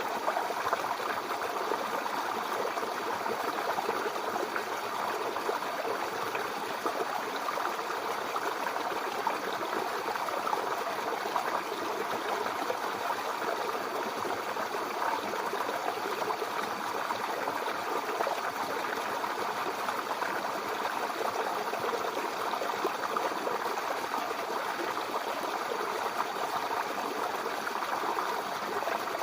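A babbling brook: shallow water running steadily over stones, a continuous gurgling rush with no pauses.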